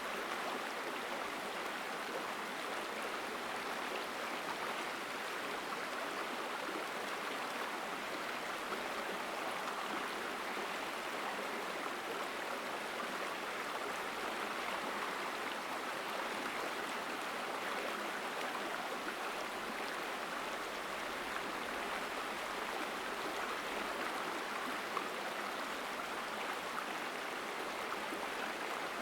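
Mountain stream rushing steadily over rocks, a strong, even flow of water.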